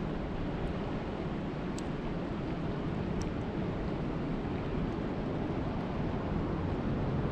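Steady rushing water with a low, even roar, and a few faint ticks about two and three seconds in.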